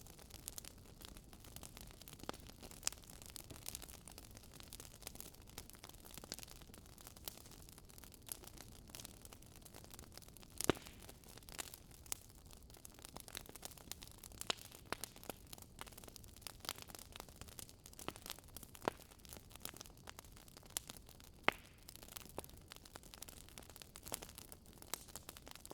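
Wood fire crackling in a fireplace: a soft hiss of burning logs with irregular snaps and pops, two of them louder, near the middle and later on.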